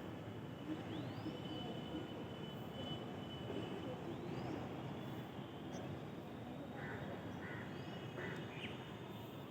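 Morning outdoor ambience: a bird repeats a short upslurred call about every three seconds over a steady low background hum, with a few brief chirps near the end.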